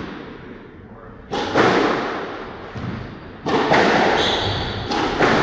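Squash rally: the ball struck by rackets and hitting the court walls, several sharp echoing hits, the first just over a second in.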